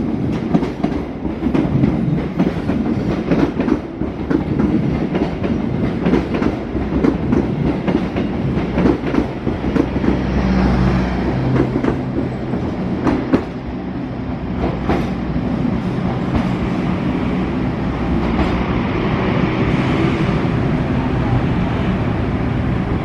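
Passenger train coaches rolling past, wheels clattering rhythmically over rail joints. About halfway through a steady low hum comes in under the rumbling of a train running along the platform.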